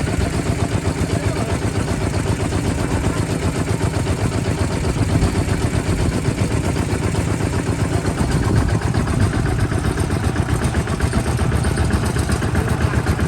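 Kubota RT 140 DI single-cylinder diesel engine running steadily with a fast, even chugging.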